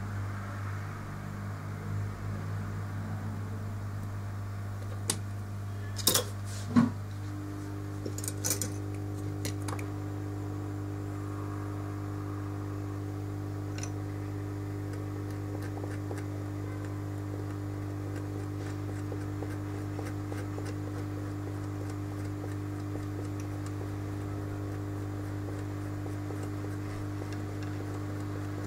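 A steady low electrical hum, with a few sharp clicks and taps around five to nine seconds in. A second, higher steady hum starts about seven seconds in and keeps on.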